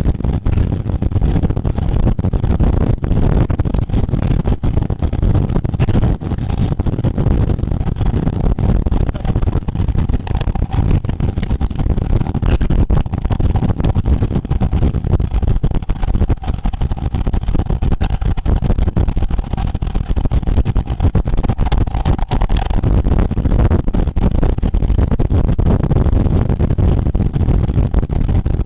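Continuous heavy wind rumble buffeting the microphone of a camera moving at race speed, with road noise and crackles under it. A faint steady whine runs through the middle of the stretch.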